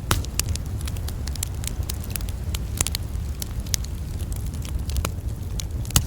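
Campfire crackling, with frequent small pops and a few louder snaps, over a steady low rumble.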